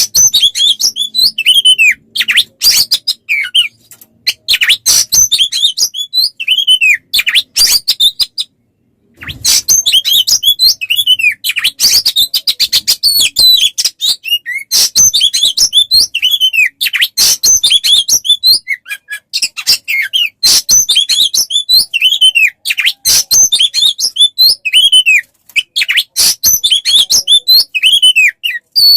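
Songbird singing without a break: fast high chirps and trills mixed with repeated downward-sliding whistles, pausing for under a second about eight and a half seconds in.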